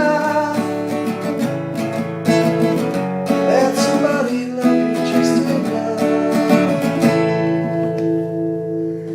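Acoustic guitar strumming the closing chords of a song's outro, with the last chord left ringing and fading for about the final two seconds.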